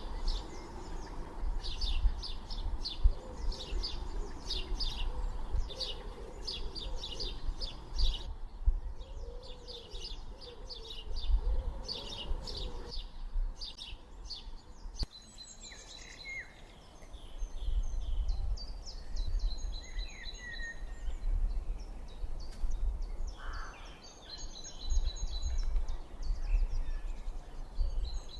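Birds singing: fast runs of high repeated chirps for the first half, changing about halfway through to different, more spaced whistled notes, over an uneven low rumble.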